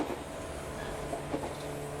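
Passenger train in motion, heard from inside the car: a steady rumble and hum with a few faint wheel clicks over rail joints.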